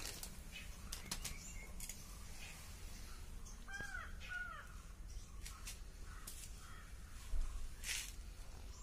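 A bird calls twice in quick succession, two short arched cries about four seconds in, over scattered light clicks and taps of metal engine parts being handled. A brief hissing, scraping noise comes near the end.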